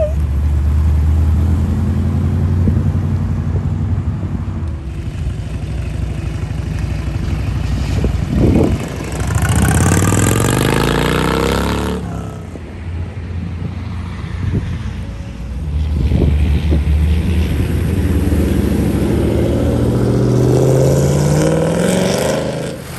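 Classic hot-rod car engines rumbling, then revving up twice as cars accelerate away: the first time about a third of the way in, the second in the last third.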